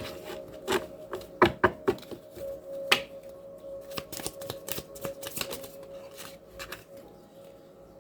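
Tarot cards being handled and shuffled: a run of quick taps and flicks, loudest about one and a half and three seconds in, over a faint steady background tone.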